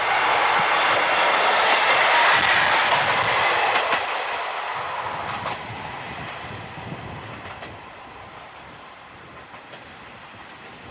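A passenger train passing close by with its wheels clicking over the rail joints. It is loudest about two and a half seconds in, then recedes and fades away.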